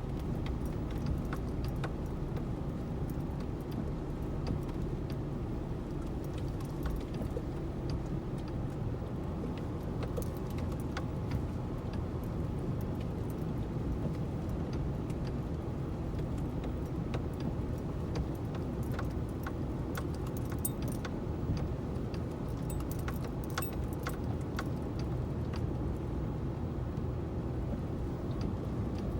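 A car driving: a steady low rumble from the engine and road, with many small, irregular clicks and jingles throughout.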